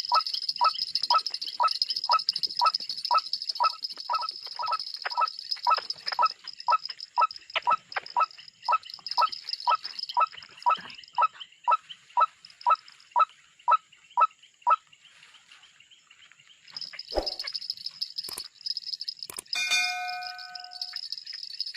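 A bird calling in a fast, even series of short notes, about two and a half a second, that stops after about fifteen seconds, over a steady high insect drone. Near the end come a few sharp clicks and a short held note.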